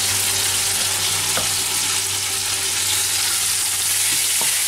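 Diced chicken and sliced onion sizzling in hot oil in a stainless steel pot, stirred with a wooden spoon, with a couple of light knocks against the pot.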